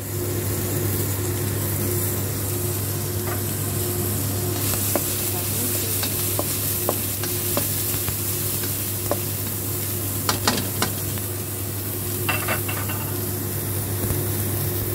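Chopped onion and garlic sizzling in hot oil in a metal frying pan, stirred with a spatula that taps and scrapes against the pan now and then, a cluster of taps about ten seconds in. A steady low hum runs underneath.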